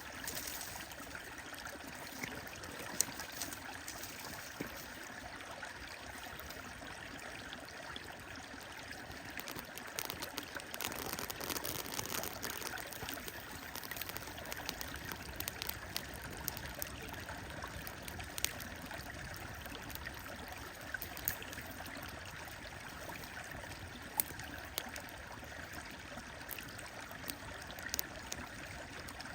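Wood fire crackling with scattered sharp pops over the steady rush of a flowing stream.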